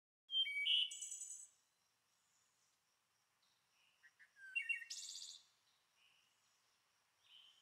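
A bird singing short, high chirping phrases: one burst just after the start, a second about five seconds in, and faint chirps between.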